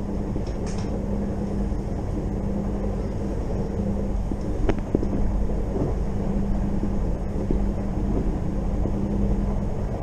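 Moving electric passenger train, heard from inside the carriage: a steady rumble of wheels on the track with a constant low hum, and a few faint clicks.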